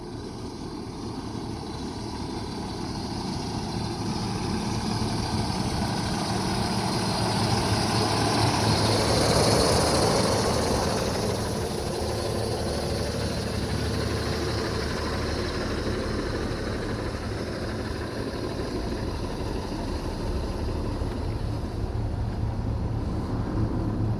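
International MV607 box truck's diesel engine running. It grows louder to a peak about ten seconds in, then settles into a steady run.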